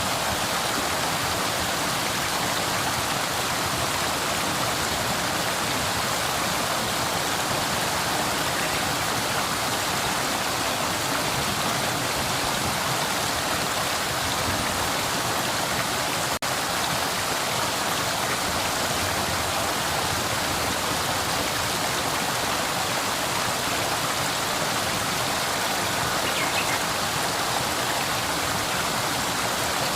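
Flowing river: a steady rush of water, with a split-second dropout about halfway through.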